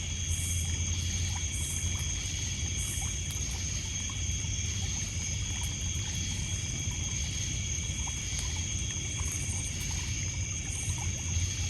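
Night ambience of a steady insect chorus, crickets holding several constant high trilling tones, with a higher pulsing call repeating about once a second at the start and again near the end. Under it runs a low wash of water lapping on a pebble shore, with a few faint crackles from a wood campfire.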